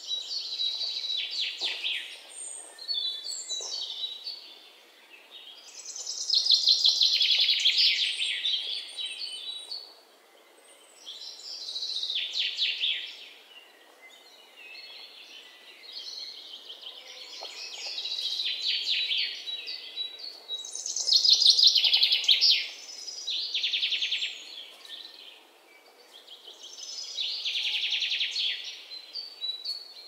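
Songbirds singing: fast trilled phrases of about two to three seconds, repeated every four or five seconds, with a faint background hiss between them.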